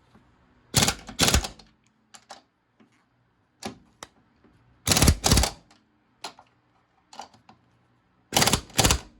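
Hand ratchet wrench clicking in three pairs of short, quick strokes, tightening the strut's upper mounting nuts.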